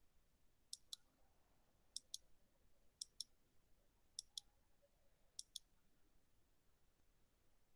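Five faint double clicks about a second apart, each pair a quick click-click, over near-silent room tone.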